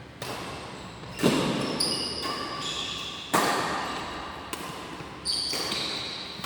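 Badminton rackets striking a shuttlecock in a rally, sharp hits about every one to two seconds, each echoing in a large hall. The second and third hits are the loudest.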